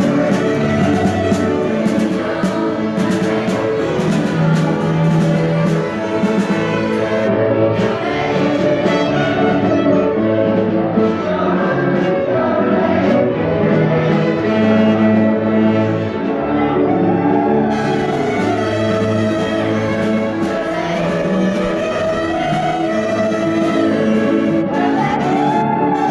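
A school choir singing a yodel song with instrumental accompaniment, the melody carried in sustained, wavering sung lines.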